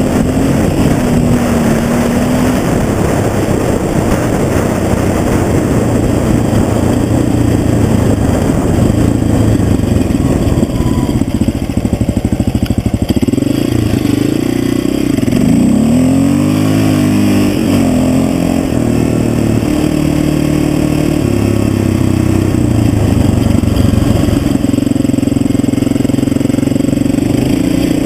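Honda XR500R's single-cylinder four-stroke engine running under way as the bike is ridden, its pitch stepping and gliding up and down with the throttle. About halfway through the revs swing down and up several times in quick succession.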